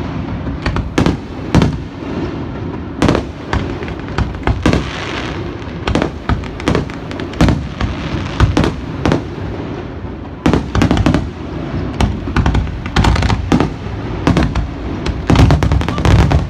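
Fireworks display: many irregular bangs, some overlapping, with crackling in between and a dense run of bangs near the end.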